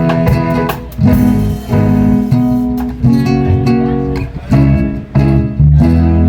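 Live band music led by guitar: chords struck in short accented hits with brief gaps between them, then one chord held and left ringing near the end.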